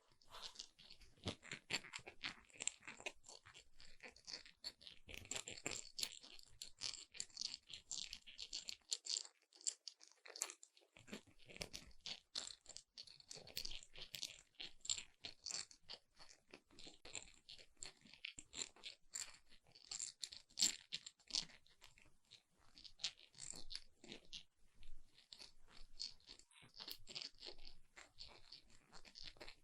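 Close-miked crunching and crackling: a dense, irregular run of small clicks that keeps going with only brief lulls.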